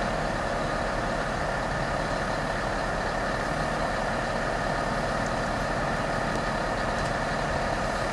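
Railway locomotive running steadily: a constant, even hum with a fixed whine that neither rises nor falls.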